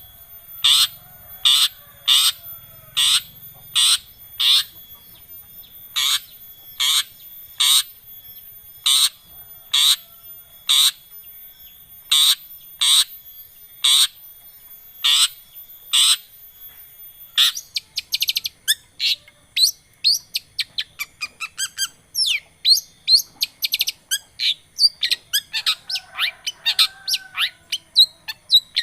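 Long-tailed shrike (cendet) calling: a string of sharp, harsh single calls a little under a second apart, then, after about seventeen seconds, a fast, varied chattering song of many quick notes.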